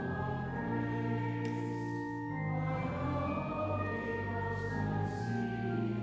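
A choir singing a slow piece in held chords that change every second or so.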